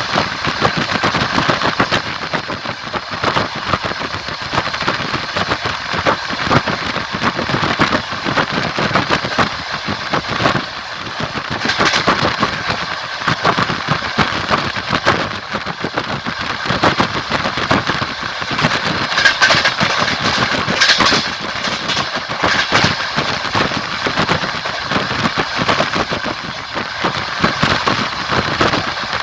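Passenger train wheels running on the rails, heard from inside the carriage. A steady rolling rumble is packed with the clatter and clicks of the wheels over rail joints.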